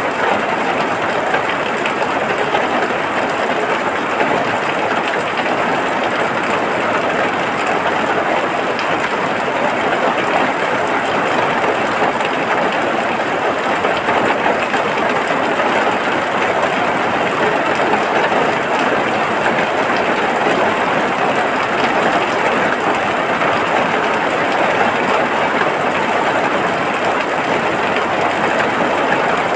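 Steady rain, an even unbroken hiss that does not change.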